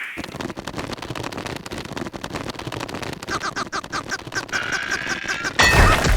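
Cartoon sound effects: a dense, fast rattle and crackle, joined a little over halfway by a quick run of short squeaky calls several times a second, then a loud thud near the end.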